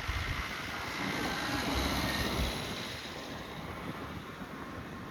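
Jet airliner passing, its engine noise swelling to a peak a couple of seconds in and then fading, with wind rumbling on the microphone.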